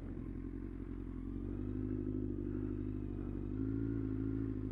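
Motorcycle engine running at low revs, a steady hum whose pitch rises slightly around two seconds in and again near the end.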